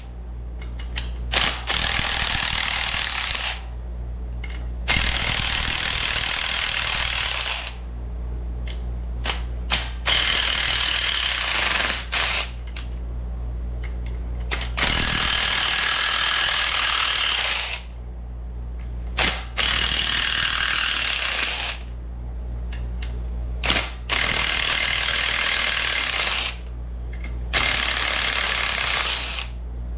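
Power tool with a 13 mm socket spinning out the crankcase bolts of a Briggs & Stratton lawn-tractor engine, about seven runs of two to three seconds each, with short clicks and knocks between them. A steady low hum runs underneath.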